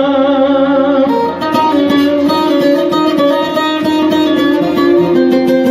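Instrumental break in a Turkish arabesk uzun hava. A plucked string instrument starts a fast run of notes about a second in, over held notes underneath.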